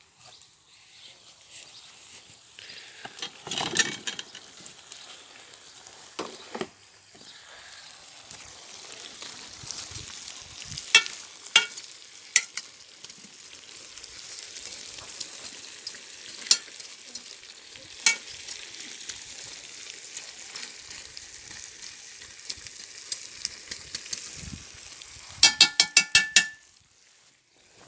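Food sizzling in a kazan: a steady frying hiss, broken now and then by sharp clinks of a utensil against the pot. Near the end comes a quick run of about seven ringing metallic taps.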